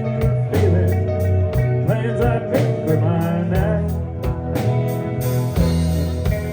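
Country band playing a honky-tonk song: a steady drum beat of about four hits a second under bass and guitar.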